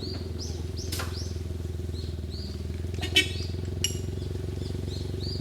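Suzuki Jimny JA11's small three-cylinder engine idling steadily, with high chirping calls repeating about twice a second over it. There is a sharp knock just after 3 seconds in.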